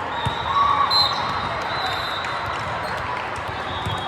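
A ball bouncing on a gym floor, with a few high squeaks and voices in a large echoing hall.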